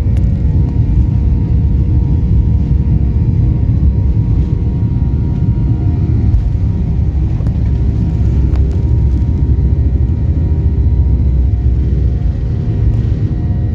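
Boeing 737 MAX's CFM LEAP-1B turbofan engines at takeoff power: a loud, steady low rumble.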